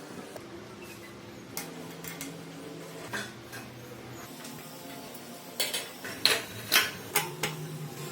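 Metal clinks and taps, sparse at first, then a quick run of several sharp knocks near the end, over faint held tones.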